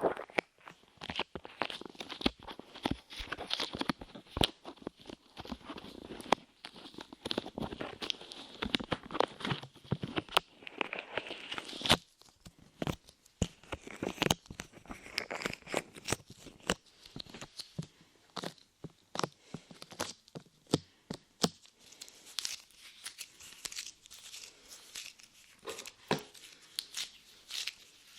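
Soft, sticky light modelling clay pressed onto and pulled off a binaural microphone's ears up close, making dense, irregular sticky crackling and sharp clicks.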